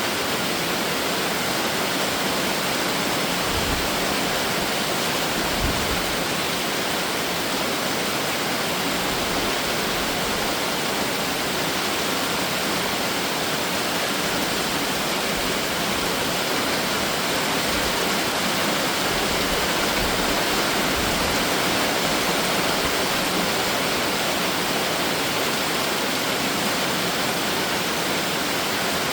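Heavy summer rain shower falling steadily: a dense, even hiss of rain, with a couple of soft low thumps in the first six seconds.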